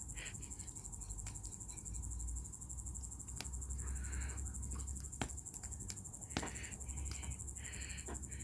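Crickets chirping in a steady high trill, with a few sharp pops from a wood fire crackling in a fire bowl.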